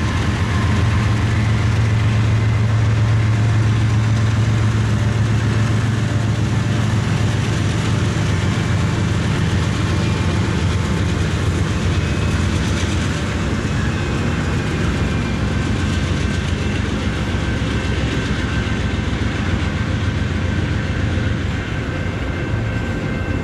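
A Norfolk Southern freight train passing close by. The diesel locomotives' engines hum loudly for the first several seconds, then a steady rolling rumble of freight cars on the rails continues.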